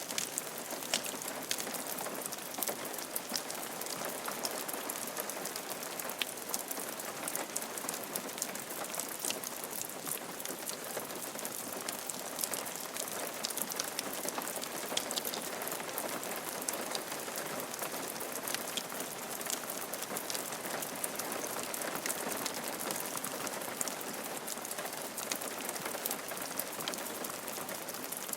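Steady rain falling on a roof, with many sharp drop impacts ticking over an even hiss.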